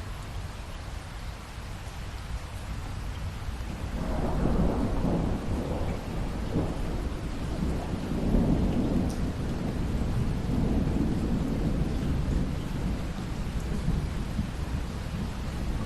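Steady rain with a long roll of thunder that swells about four seconds in and rumbles on to the end.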